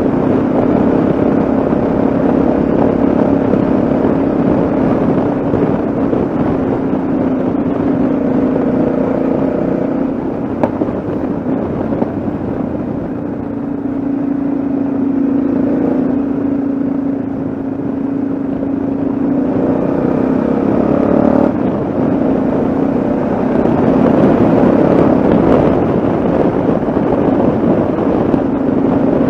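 Yamaha XT660Z Ténéré's single-cylinder engine running steadily at riding speed, with a rush of wind and road noise. The engine note shifts in pitch about twenty seconds in.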